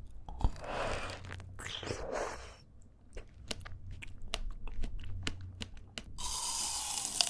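Close-miked chewing of fresh fruit (strawberries and apple): moist crunching, then a run of short wet mouth clicks, then denser crunching near the end.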